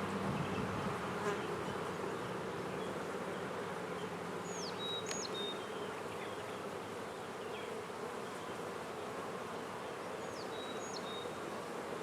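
A steady hum of many honey bees buzzing around an open hive during an inspection. A short, high whistle that drops and then holds a level note sounds twice, about five and ten seconds in.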